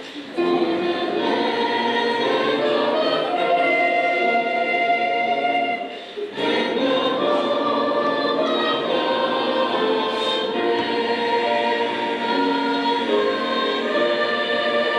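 A choir singing in held chords, with short breaks for breath just after the start and again about six seconds in.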